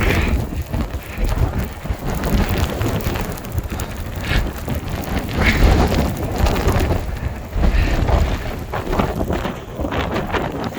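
Blizzard wind blowing hard in gusts and buffeting the microphone, a loud rushing noise with a heavy low rumble that swells and eases every few seconds.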